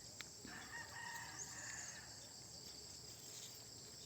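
A rooster crowing once, faintly, starting about half a second in and lasting about a second and a half, over a steady high drone of crickets.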